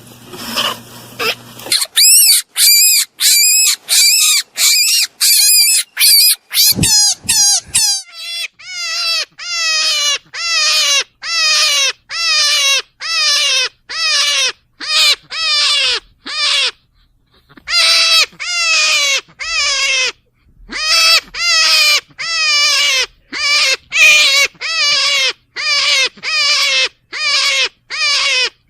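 An animal calling over and over, about two short calls a second, each falling in pitch, with a pause of about a second a little past the middle.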